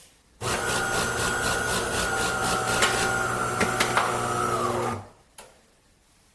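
De'Longhi Dinamica fully automatic espresso machine running its espresso cycle. A motor runs steadily for about four and a half seconds, winds down, and is followed by a single click.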